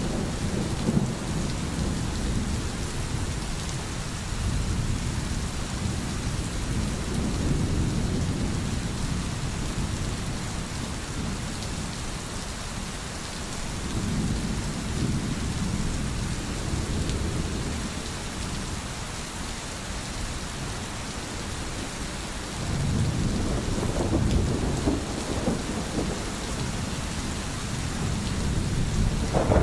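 Steady rain falling, with a low rumble that swells and fades several times.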